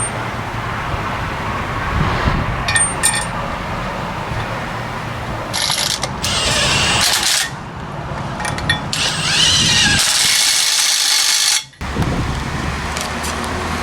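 Pneumatic air hammer working on the kingpin lock pins of a Ford F-650 medium-duty truck's front axle, run in loud bursts of a couple of seconds with pauses between; it cuts out sharply about three-quarters of the way through, then the noise picks up again.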